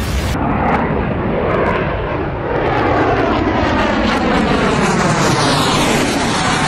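Aircraft engine noise from an airplane in flight, with a sweeping pitch that glides down and back up, a little louder about halfway through.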